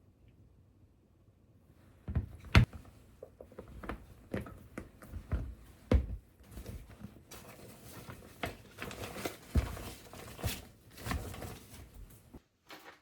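Objects being handled at close range: a string of light knocks and clicks over rustling and crinkling, the loudest knock about two and a half seconds in, stopping abruptly near the end.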